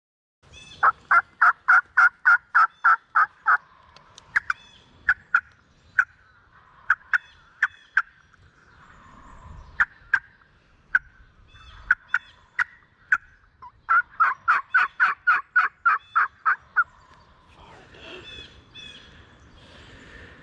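Turkey yelping: a run of about ten sharp, evenly spaced yelps, then scattered single yelps and clucks, then a second run of about ten yelps near the end.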